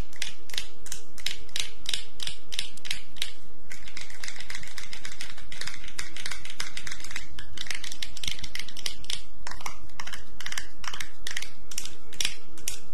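Close-miked ASMR clicking and tapping from roleplay dental tools being worked against the microphone, a quick dry run of about four clicks a second that never lets up.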